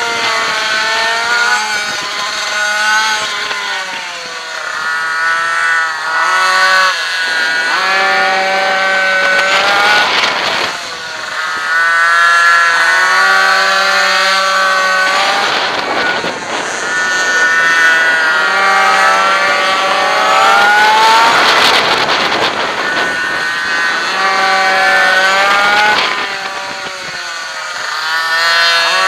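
Two-stroke minimoto engine heard onboard during a race, its pitch climbing under acceleration and dropping off for the corners, over and over.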